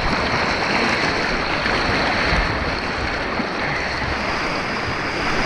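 Steady rush of churning white water on an artificial white-water course, heard from a kayak on the water.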